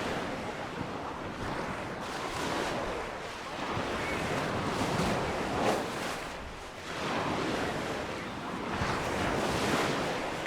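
Sea waves breaking and washing up a sandy beach, the surf swelling and ebbing every few seconds, with wind buffeting the microphone.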